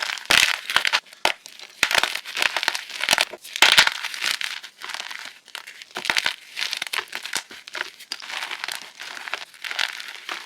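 Plain chalk being crushed, crumbling with a dense, irregular run of small crackling crunches. The crunches are louder in the first half.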